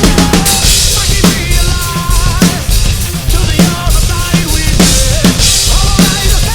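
Rock/metal drum kit played live over the band's recorded song: steady bass drum, a hard snare hit about every second and a bit, and cymbals, with guitars and a melody line from the track underneath.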